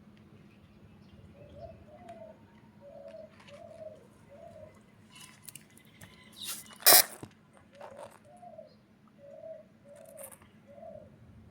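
A dove cooing in two runs of short, repeated coos, with faint bird chirps. About seven seconds in, a loud, sharp, noisy sound that lasts well under a second breaks in between the runs.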